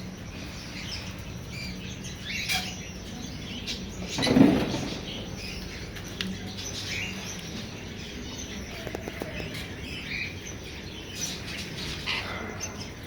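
Small birds chirping in scattered short calls, with a brief louder rustling noise about four seconds in.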